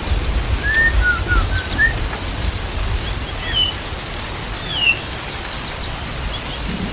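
A songbird whistling short clear notes: a quick run of five or six in the first two seconds, then two higher, falling notes a little later. A steady low rumble runs underneath.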